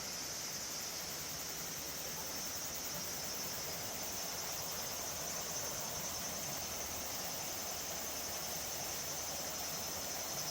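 Insects chirring in a steady high-pitched drone, over the even rush of a mountain stream.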